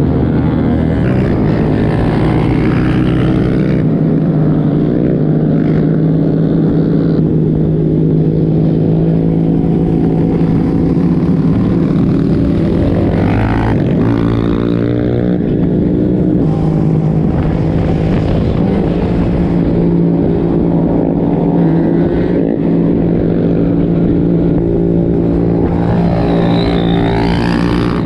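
A motor vehicle engine running steadily under way. Its pitch shifts about halfway through and rises and falls again near the end.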